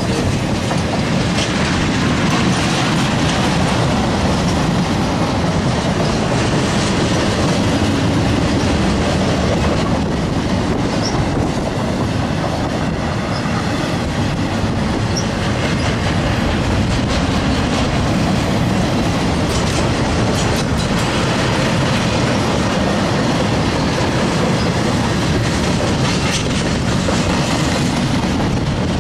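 Freight train of flatcars loaded with wind turbine blades rolling past close by: steady, loud noise of the wheels running on the rails.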